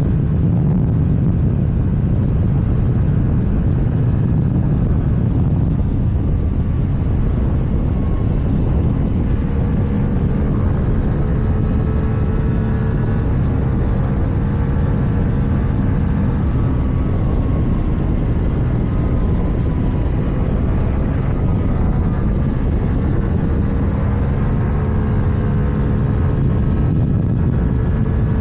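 KTM Duke 790 parallel-twin engine with an Akrapovic exhaust running at a steady cruise, its pitch drifting slightly up and down, under a heavy rush of riding wind.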